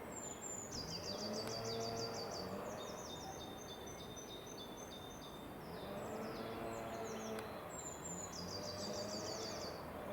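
Songbird singing: repeated fast trilling phrases of short, high, falling notes, some ending in steadier notes. Underneath is a faint low rumble with a few soft tones that slowly rise and fall.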